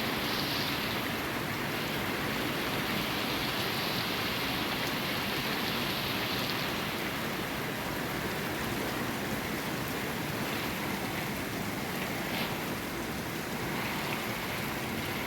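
Steady rainfall, an even hiss of rain with a few faint sharper drips near the end.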